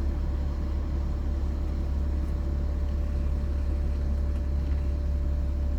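Cummins Onan 7.5 kW Quiet Diesel generator running steadily: a constant low drone with a faint steady higher hum over it.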